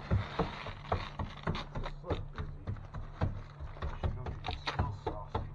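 An irregular series of sharp taps and knocks, several a second, over a steady low electrical hum.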